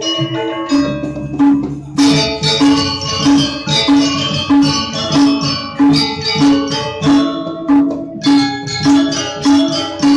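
Balinese gong kebyar gamelan playing: bronze metallophones ringing over a steady drum pulse, with a loud full entry about two seconds in and strong accents about every two-thirds of a second after it.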